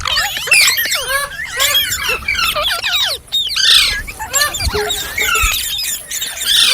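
Ringneck parrot chattering: a fast, continuous run of squeaky whistles and short squawks that sweep up and down in pitch.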